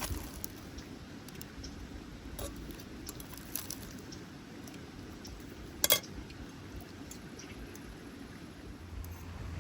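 Low outdoor background rumble with scattered light clicks, and one sharp click about six seconds in.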